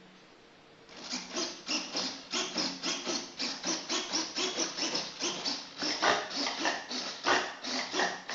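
Rhythmic rubbing or scraping strokes of a hand tool across a surface, about three a second, starting about a second in.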